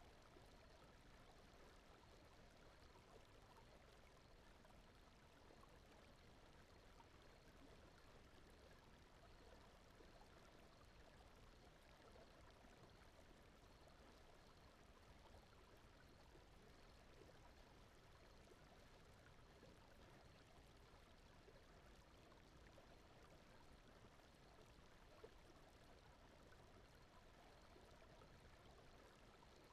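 Very faint, steady brown noise: a soft, even rush with no changes.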